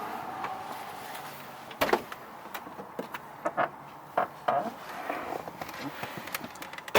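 Scattered clicks and knocks of objects being handled, the loudest about two seconds in, over a hiss that fades during the first second.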